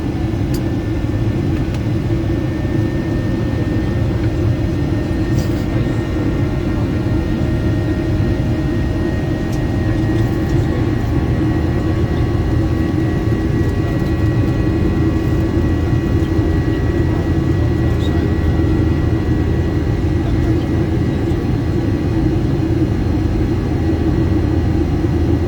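Boeing 737-800 cabin noise with its CFM56-7B engines at climb power after takeoff: a steady deep rumble with faint engine whine tones over it. A higher whine comes in and grows about ten seconds in.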